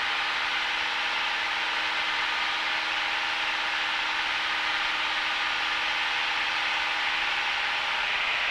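Steady cabin noise of a Cessna 172 in flight: the engine and propeller running at a constant setting under an even hiss of airflow.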